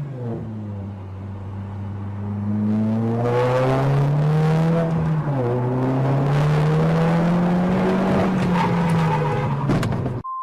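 Car engine running under changing throttle, its pitch rising and falling slowly and getting louder about three seconds in. A steady high beep comes in right at the end.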